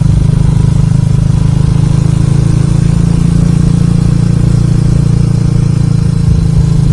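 Motorcycle riding at a steady cruising speed: a steady low engine drone mixed with wind and road noise.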